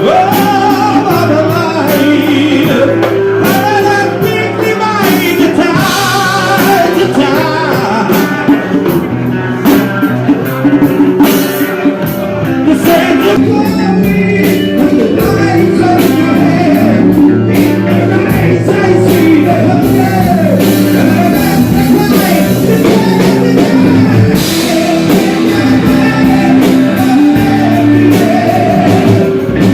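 Blues-rock song playing loudly: a band with guitar and drums, with a sung or lead melody line over it.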